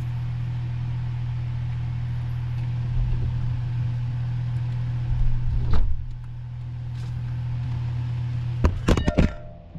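A steady low motor hum with a knock about six seconds in, then a few clicks, after which the hum cuts off near the end.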